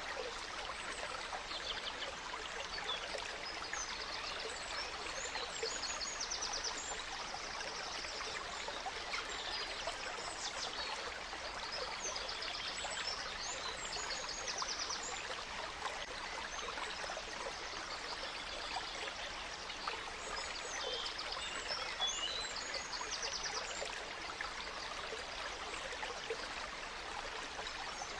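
Gentle stream running steadily, with forest birds singing over it: many short chirps and several quick trills.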